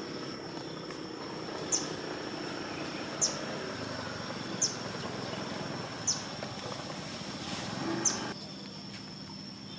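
A bird gives a short, sharp, high chirp about every one and a half seconds, five times, over a steady high-pitched insect drone.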